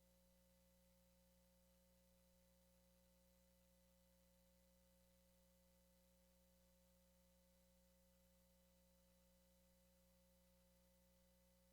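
Near silence: a faint, unchanging electrical hum of a few steady tones over low hiss.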